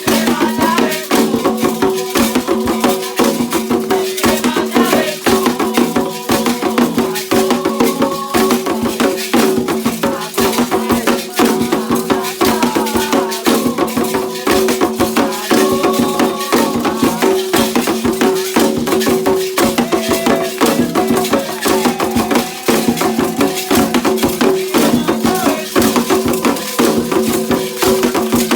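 Candomblé ritual music: hand drums and rattles playing a continuous, dense percussive rhythm.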